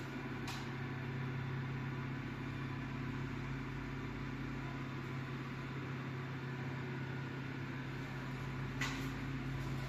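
Elevator traction machine's electric motor running steadily with a constant hum, as the car travels at full speed. A sharp click sounds about half a second in and again near the end.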